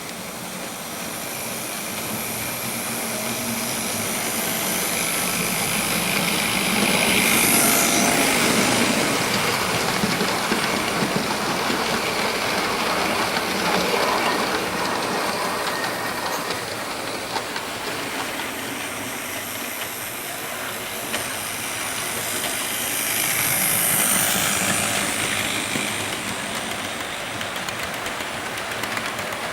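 Model train running around a layout loop, double-headed by two LMS model locomotives (one a 3F) pulling six carriages and a wagon: motor hum and wheels clicking over the rail joints. It swells louder twice, about a quarter of the way in and again near the end, as the train passes close by.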